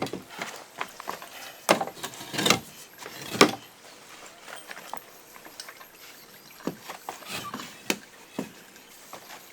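Irregular knocks and clatters from hand building work, with three loud strikes in the first few seconds, then lighter, scattered taps.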